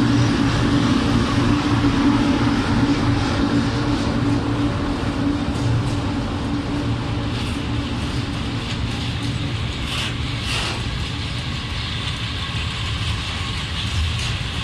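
A freight train's open gondola wagons rolling past on the track: a steady rumble of steel wheels on rail, easing off slightly, with a couple of sharper clicks about ten seconds in.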